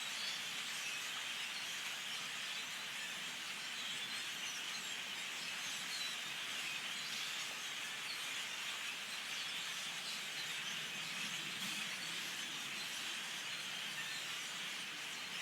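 A large flock of birds calling all at once, making a dense, steady chatter with no breaks.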